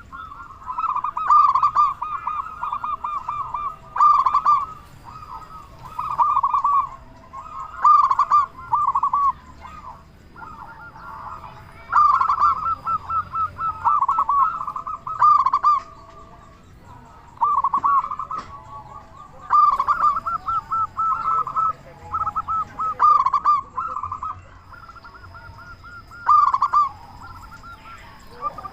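Zebra dove (perkutut) cooing: loud bouts of quick, rolling repeated notes, one about every two seconds, with fainter higher-pitched calls of other birds behind.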